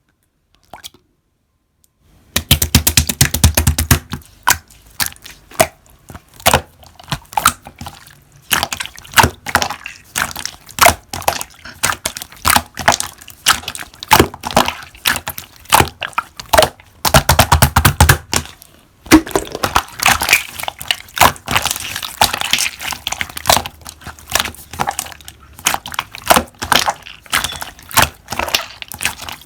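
Slime being squeezed and pressed by hand, giving a dense run of crackling, popping clicks that starts about two seconds in.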